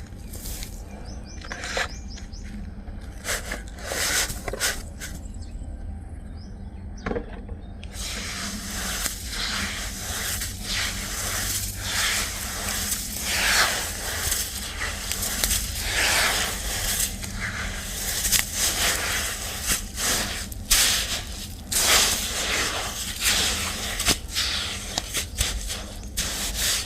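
Dry black sand clumps crumbling, an irregular run of crisp crackles, crunches and scrapes that gets busier from about eight seconds in.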